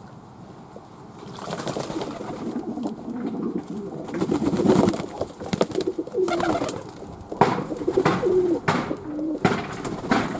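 Fantail pigeons cooing repeatedly, several wavering coos in a row, with a few sharp knocks among them.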